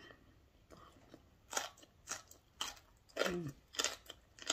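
Close-miked eating sounds: chewing with crisp crunches and wet mouth clicks. A short 'mm' hum falls in pitch about three seconds in.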